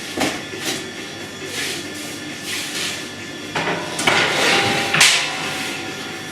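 Work in a bakery: a few sharp knocks about a second apart, then a louder, longer scraping clatter with two hard hits a second apart.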